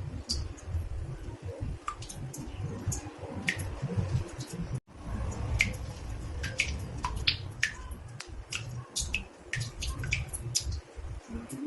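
Water drops falling irregularly into a bathtub, several a second, each a short sharp plink, some with a brief ringing pitch, over a low steady rumble. The sound drops out briefly about five seconds in.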